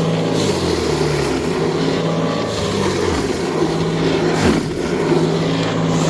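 Snow Joe cordless battery-powered snow thrower running steadily as it clears snow, its electric motor and impeller giving a steady hum, with the pitch dipping briefly twice in the middle.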